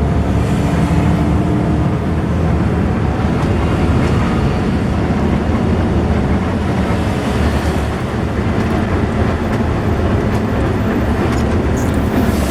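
Coach bus running on the road: a steady, loud, low engine and road rumble.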